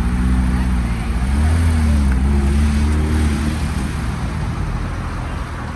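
A car engine rolling slowly past, its low note rising and falling with small blips of throttle, then fading away.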